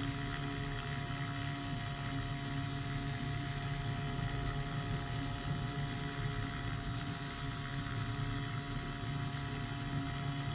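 Engine of a powered hang glider running steadily in flight, a constant drone with no change in pitch.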